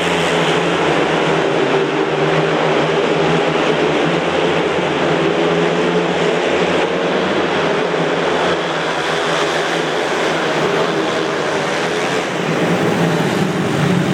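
Several speedway motorcycles, 500 cc single-cylinder engines, racing around the track with a loud, steady engine noise.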